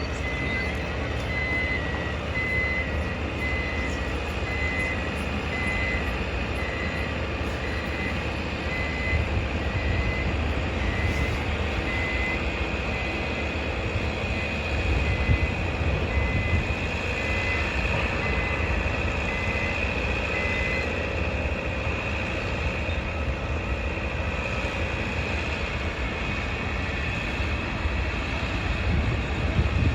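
Construction-site noise: a steady low rumble of heavy machinery and vehicle engines, with a reversing alarm beeping a single high tone about one and a half times a second that stops about two-thirds of the way through.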